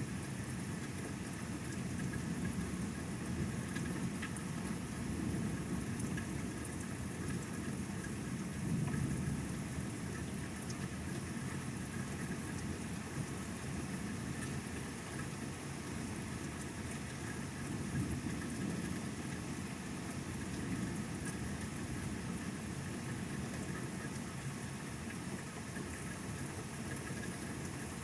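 Steady rain falling, an even hiss with a low rumbling noise underneath.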